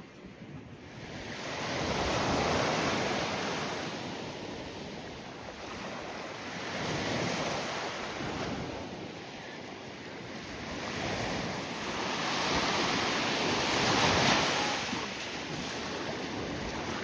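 Waves breaking on a beach, the surf swelling and fading every few seconds, with wind buffeting the microphone.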